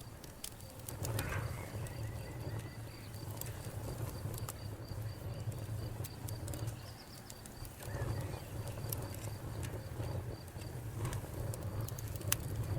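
Wood fire burning, with scattered sharp crackles and pops over a low steady rumble.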